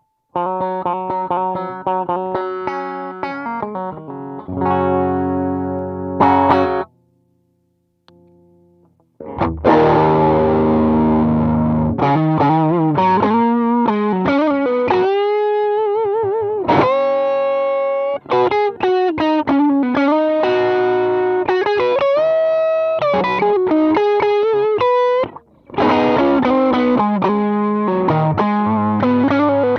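Electric guitar played through a 68 Pedals Inca Kola overdrive pedal, a Zendrive clone: a picked phrase, then chords, and after a brief pause about seven seconds in, bent and vibrato lead notes with smooth overdrive.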